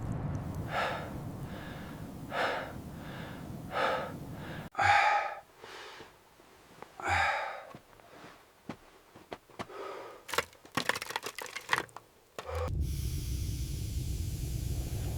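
A person breathing heavily and gasping over a low steady rumble like wind, then a run of sharp cracks and snaps, then the steady rumble again.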